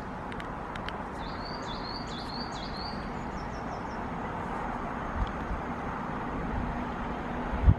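A small songbird singing a quick phrase of about five short rising whistled notes followed by a brief high trill, over steady outdoor background noise. There are a couple of short low thumps, the loudest near the end.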